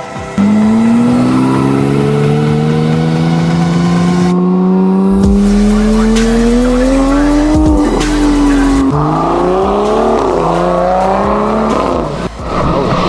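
Performance car engine accelerating hard, its pitch climbing steadily for several seconds, then dropping about eight seconds in and turning rougher as it pulls again.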